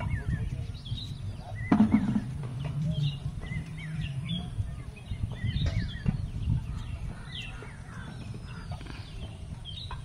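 Birds chirping on and off, many short high calls, over a steady low rumble, with one louder sound about two seconds in.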